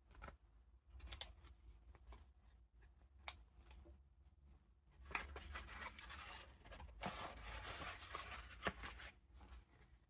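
Paper pages and vintage ephemera of a handmade junk journal being handled and turned: scattered small taps and ticks, then two longer stretches of paper rustling about halfway through and again later.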